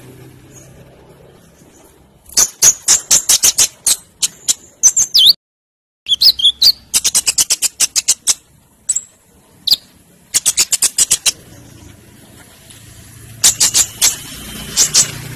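Konin sunbird singing loudly in its full 'metallic' song: several bursts of rapid, sharp, very high-pitched notes separated by short pauses, cutting out briefly to dead silence about five and a half seconds in.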